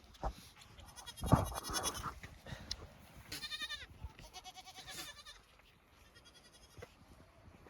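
Oberhasli dairy goats bleating, a few separate calls in the first five seconds, the first the loudest.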